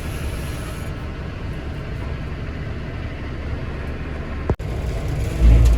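Steady low engine rumble. It drops out abruptly for an instant about four and a half seconds in, and there is a loud low thump near the end.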